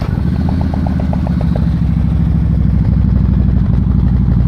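Harley-Davidson bagger's V-twin idling just after starting, its loud, low, steady note coming through 4.5-inch Vance & Hines exhaust pipes. A light rapid ticking stops after about a second and a half.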